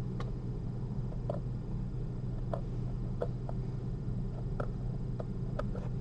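Faint, scattered clicks of metal surgical instruments being handled while suturing a patch on a 3D-printed heart model, about a dozen over a few seconds, over a steady low hum.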